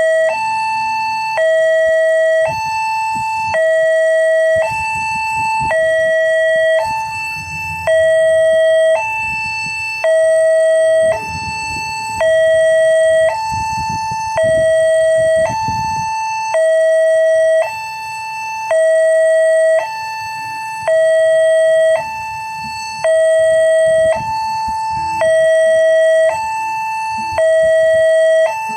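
Railway level-crossing warning alarm sounding its repeated two-tone chime: a higher and a lower tone alternating steadily, about one pair every two seconds. A low rumble comes and goes underneath.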